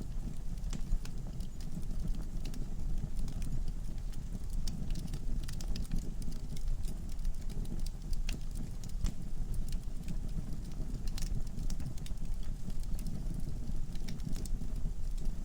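Logs burning in a fireplace, crackling with irregular sharp pops and ticks over a steady low rumble of the flames.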